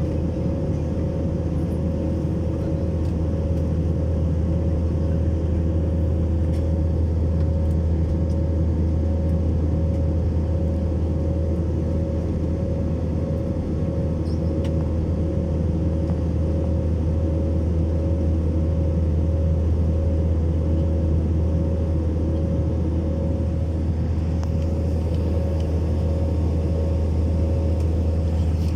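A steady, low engine drone with a constant hum above it, unchanging throughout.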